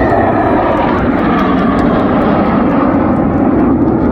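Loud, steady engine noise of a fixed-wing aircraft flying over the air show.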